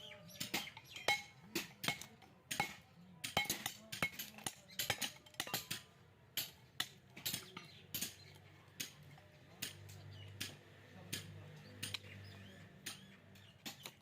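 Metal striking metal: a hammer knocking on the steel shell of a small refrigerator compressor to break it open for scrap, in an irregular run of sharp ringing clinks about two a second.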